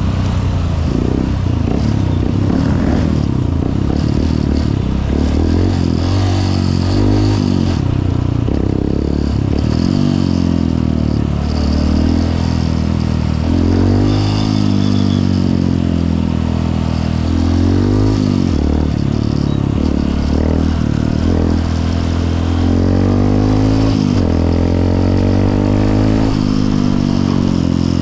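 Honda CRF150L's single-cylinder four-stroke engine running on the move. Its pitch rises and falls again and again as the rider opens and eases off the throttle through traffic, over a steady rushing hiss.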